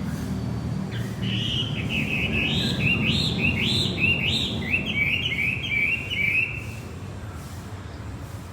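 Male wambi songbird singing a rapid chirping phrase of repeated rising-and-falling notes, about three a second, lasting some five seconds, over a steady low background rumble.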